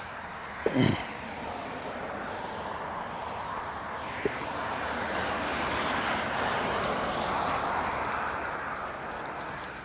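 A passing vehicle's road noise, swelling and then fading over several seconds. About a second in, a dog gives one short whine that falls in pitch.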